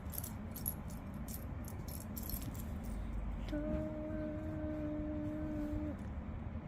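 Loose plastic Lego pieces rattling and clicking as hands rummage through them. About halfway through, a steady hummed note is held for roughly two and a half seconds.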